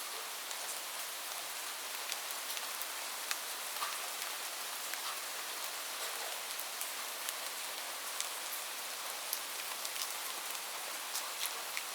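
Steady rain: an even hiss of falling rain with frequent, sharp individual drop ticks scattered through it.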